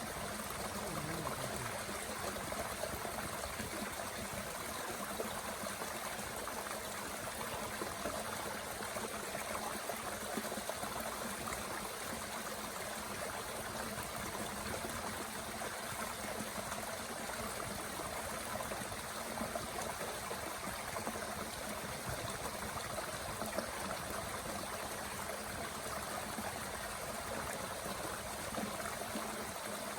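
Steady rushing of a small mountain stream, with a few faint pops from a wood fire burning in a Bushbox stove.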